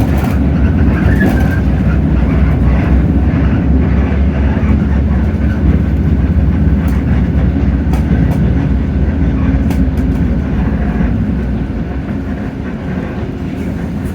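Hino J08E-VN 7.7-litre inline-six diesel engine of a Hino RK8JRVA city bus running, heard from inside the cabin as a steady low drone with faint rattles. The drone eases off a little about eleven seconds in.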